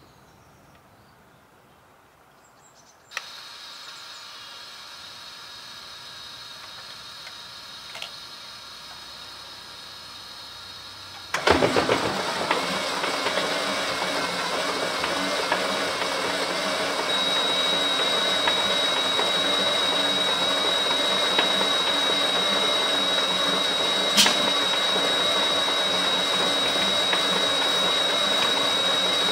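Start-up of a Rolls-Royce Merlin 500-29, a 27-litre V12 aero engine, for a test run. A steady lower hum comes on suddenly about three seconds in. About eight seconds later the engine catches abruptly and runs steadily and loudly, with a thin high whistle joining a few seconds after it catches.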